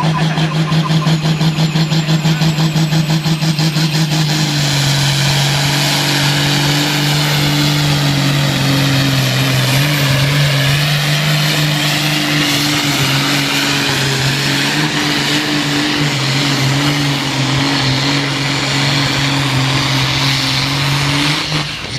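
Ursus tractor's diesel engine running hard at full load while pulling a weight sled. It pulses quickly for the first few seconds, then from about four seconds in holds a steady, loud high-revving note with a slight waver until the end of the pull.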